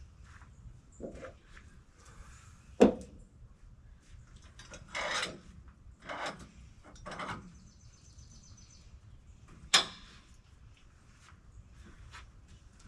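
Two sharp knocks, about three seconds in and near ten seconds, with three short scrapes between them.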